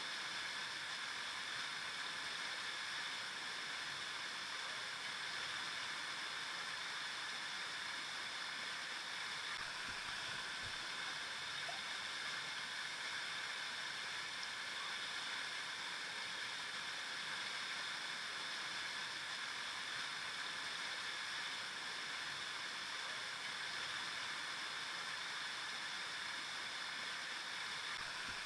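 Flowing river water: a steady, even rush and babble of a stream over rocks.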